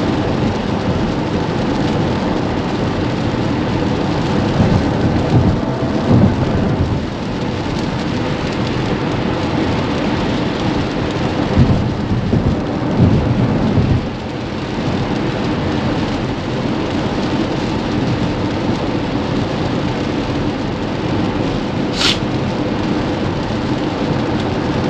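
Heavy rain on the roof and windshield of a Tesla Model X, with tyre spray and road noise from wet highway driving, heard inside the cabin. Two louder low swells come through about 5 and 12 seconds in, and there is one brief sharp high sound near the end.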